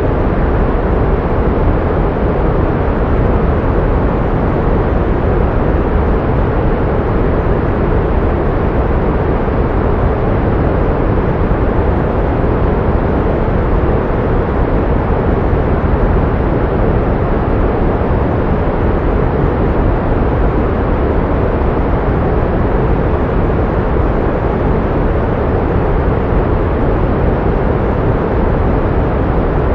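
Pink noise: a steady, unchanging hiss, heavier in the low end than white noise.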